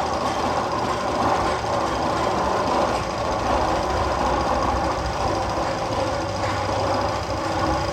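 Roller coaster tunnel sound effect: a continuous rattling, rumbling machine-like noise that holds steady throughout, without distinct knocks or pauses.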